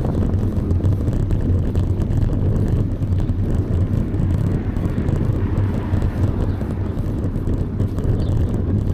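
Steady low rumble of wind buffeting the microphone while riding a bicycle, mixed with road noise.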